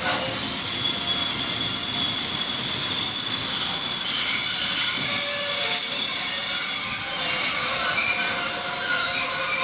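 Intermodal freight wagons loaded with containers rolling slowly past, with a loud, steady high-pitched metallic squeal from the running gear and fainter squeals wavering beneath it.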